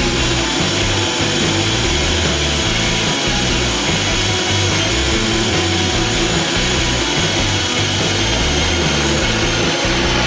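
ZUBR DL 20 A5 drill-driver running at a steady speed with an even motor whine, over background music with a bass line.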